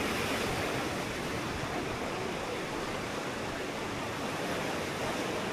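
Ocean surf washing onto the beach, a steady, even rushing without breaks.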